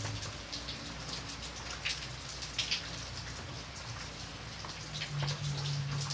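Rain falling, with many separate drops pattering and splashing on a surface over a steady wash of rain. A low steady hum runs underneath and grows stronger about five seconds in.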